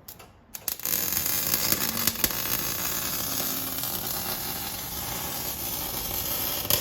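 A steady hissing noise with a few faint clicks, starting about a second in.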